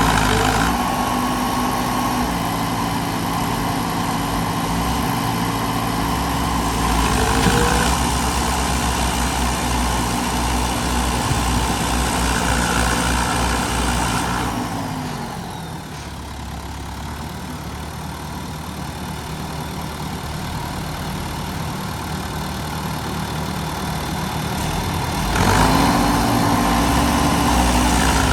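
Tractor diesel engine running steadily. About halfway through it throttles down, the pitch drops and it goes quieter; shortly before the end it picks up sharply again.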